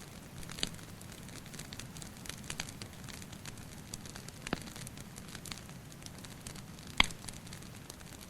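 Wood fire crackling with irregular sharp pops, the loudest about seven seconds in, over a steady low hiss, with water dripping in a cave.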